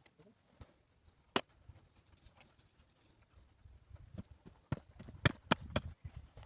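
Sharp knocks of wood being struck with a hand tool: a single knock about a second in, then a quick run of about four knocks near the end, over faint low thudding.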